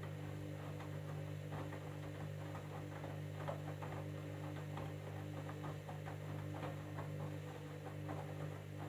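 Candy washing machine running a jeans cycle: a steady low motor hum with irregular light ticks and clicks.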